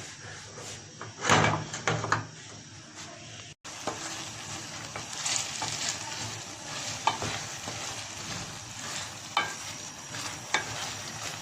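Chicken-and-pear curry sizzling as it fries in the pot, stirred with a spoon that clicks and scrapes against the pan. There are a few louder knocks about a second in.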